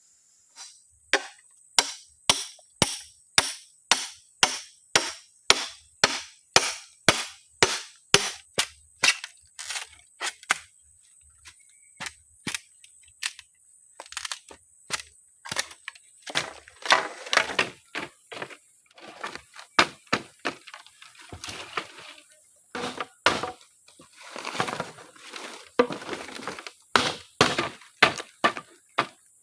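Wood being chopped with a blade: a fast run of sharp strikes, about two and a half a second, for the first ten seconds or so, then after a short pause a second, more irregular run of heavier strikes with a splintering crackle after each.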